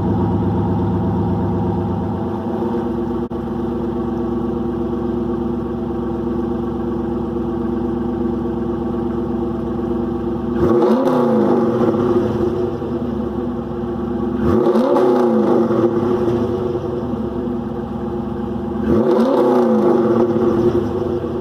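2001 Camaro SS's LS1 V8 idling through SLP long-tube headers and a Texas Speed muffler with an exhaust cutout. The idle turns quieter about two seconds in. It is then revved three times, each rev rising and falling in pitch: about halfway through, again a few seconds later, and near the end.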